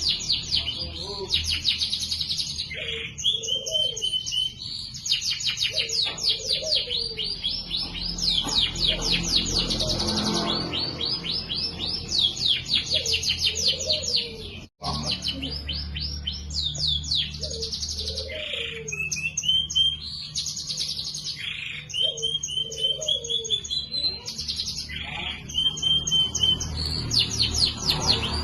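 Domestic canary in full song: fast rolling trills of rapidly repeated high notes alternating with short whistled phrases. The song breaks off for a split second about halfway through.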